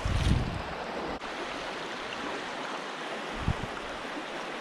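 River rapids rushing, a steady even hiss of fast shallow water over rocks, with a couple of low thumps, one near the start and one past the middle.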